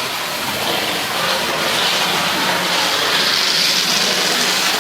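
Model Class 37 locomotive running noisily around the train-set track with its coaches, a steady sound that grows louder about three seconds in.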